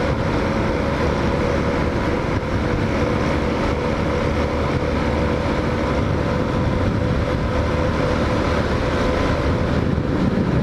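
Hawk 250 motorcycle engine running steadily at cruising speed, with road and wind noise.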